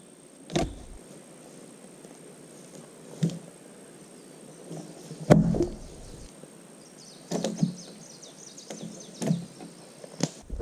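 Irregular wooden knocks, about seven in ten seconds, the loudest about halfway through with a deep thud: a knife being struck with a wooden baton so it bites into a pole and weakens it for breaking. A short crackle of wood comes about seven seconds in.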